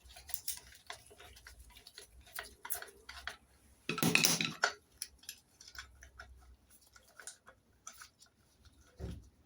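Hand tools and small metal engine parts clinking and clicking while bolts are worked off the engine. There is a louder rattle lasting under a second about four seconds in, and a dull thump near the end.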